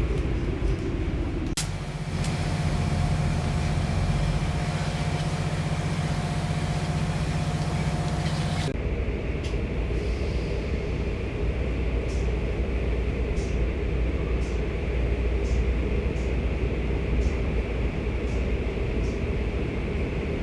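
Automatic car wash machinery running. A loud, even hiss of spraying water over a steady hum for about seven seconds stops abruptly. A lower steady rumble with scattered faint ticks follows.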